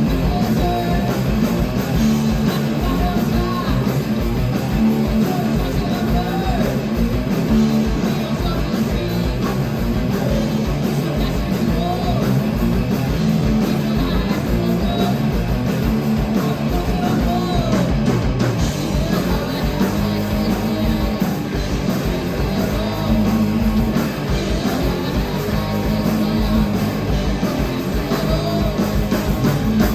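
Live rock band playing heavy rock at full volume: distorted electric guitars, bass and a drum kit pounding steadily throughout.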